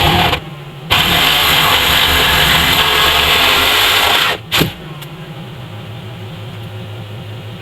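Motor vehicle engine running, in short edited clips that cut in and out abruptly: loud and rough for a few seconds, then a quieter, steady idle after a cut about two-thirds of the way in.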